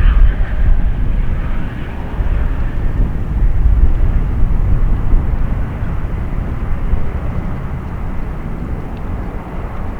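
Jet airliner engines at takeoff power, a loud steady low rumble that swells and eases a little.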